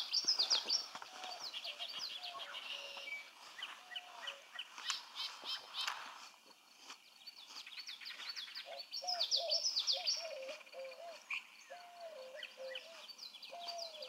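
Wetland birdsong: many quick, high chirps and trills from small birds, with a series of lower, short call notes repeating through the second half.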